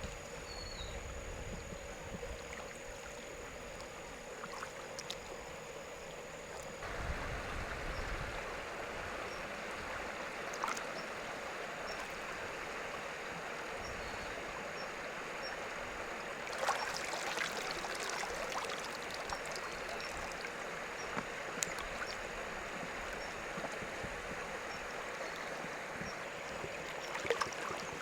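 Flowing river water, a steady rushing that grows louder about seven seconds in, with a few short knocks and splashes.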